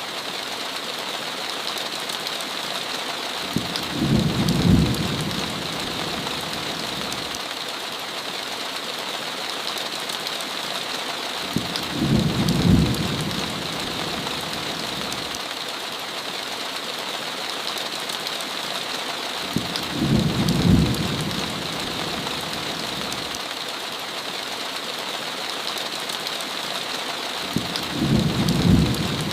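Steady heavy rain hitting a window, with four short low rumbles of thunder coming at even intervals about eight seconds apart.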